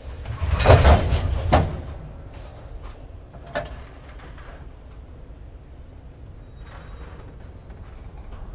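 Freight train covered hopper cars rolling past, a steady low rumble of wheels on rail. Loud metallic clanks come between half a second and a second and a half in, with another sharp clank at about three and a half seconds.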